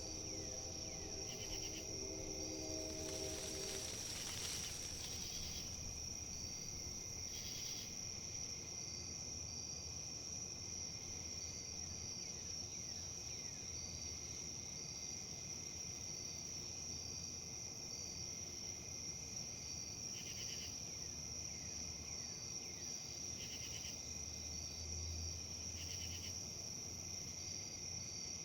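Steady high-pitched insect trilling, typical of crickets, over a soft low background noise of wind, with faint short chirps repeating through it.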